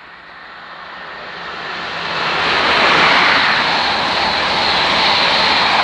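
A Class 43 HST diesel power car approaching and passing at speed, its engine and wheel noise building over about two seconds to a loud, steady rush.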